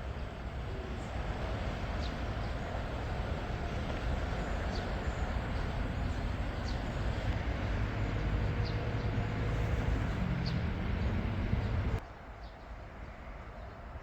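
A steady low rumble of vehicle noise that slowly builds for about twelve seconds, then cuts off abruptly, with faint short high chirps over it every second or two.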